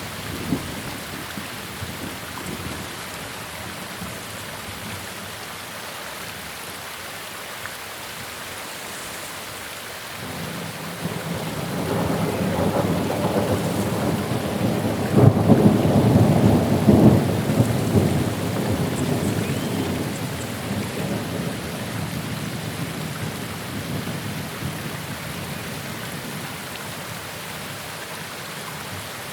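Steady rain with a long roll of thunder that builds about a third of the way in, peaks past the middle and rumbles away over several seconds.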